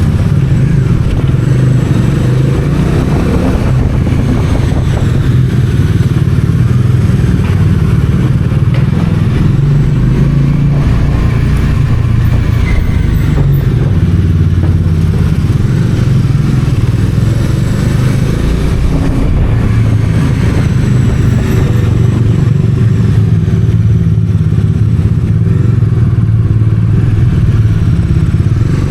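Bajaj Dominar 400's single-cylinder engine and exhaust running steadily while riding, with no sharp revs.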